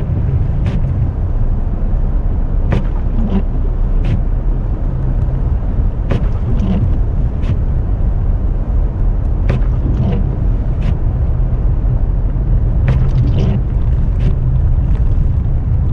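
Car cabin noise while driving slowly on a snow-covered road in a blizzard: a steady low rumble of engine and tyres, with scattered sharp ticks about once a second.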